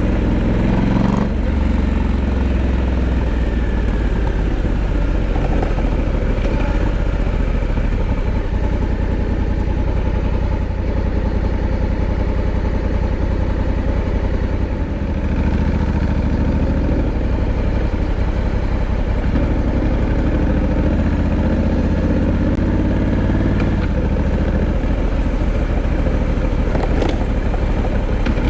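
Honda Africa Twin 1100's parallel-twin engine running, its note rising and falling several times with the throttle over a steady low rumble.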